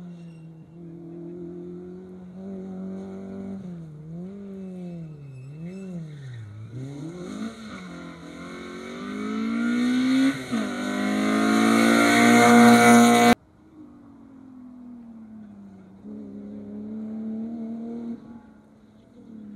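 Rally car engine with its pitch rising and falling several times as the throttle comes on and off, then accelerating hard and growing steadily louder as it approaches. It cuts off suddenly near its loudest, about thirteen seconds in, and a quieter engine note follows.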